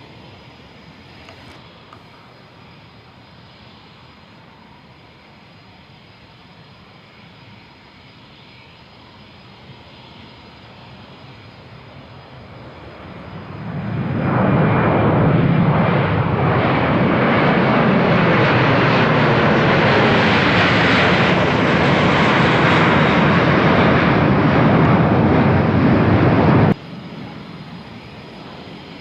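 Embraer KC-390's twin IAE V2500 turbofan engines: a faint steady rush that swells about halfway through into a loud, even jet noise, held, then cut off abruptly near the end.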